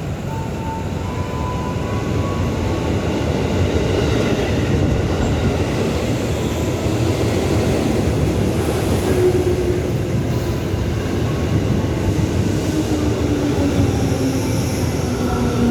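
Electric commuter train arriving at a station, its rumble growing louder over the first few seconds. From about halfway, a motor whine falls steadily in pitch as the train slows.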